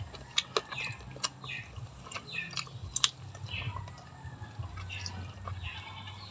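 Small birds chirping over and over, each call a short falling note, with sharp clicks and smacks of eating close to the microphone, the loudest about three seconds in.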